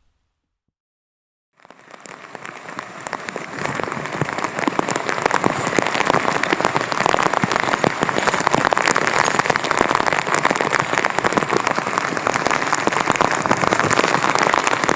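Heavy typhoon rain pattering densely, fading in after about a second and a half of silence and then holding steady.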